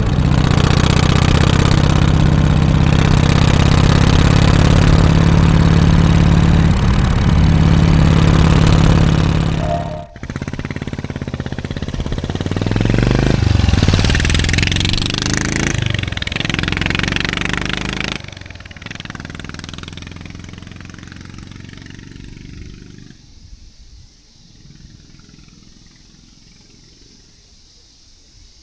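Harley-Davidson FXSTC Softail Custom's 1340 cc Evolution V-twin idling steadily. About ten seconds in the sound cuts abruptly to the engine rising and falling in pitch, then it fades away over the last ten seconds.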